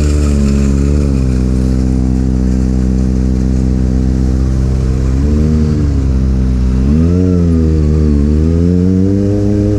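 Motorcycle engine running under way, its pitch rising and falling with the throttle several times, around five, seven and nine seconds in.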